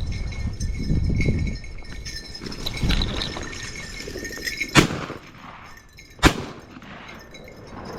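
Two shotgun shots about a second and a half apart, fired at a flushing pheasant. The second one is the louder.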